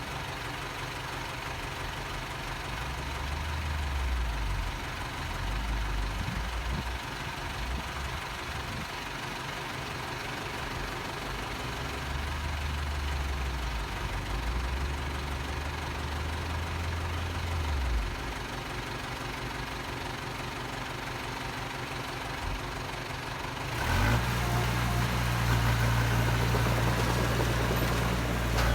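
Heavy diesel earthmoving machinery running, its engine rising and easing several times as it works under load. Near the end a louder, steadier engine sound comes in suddenly.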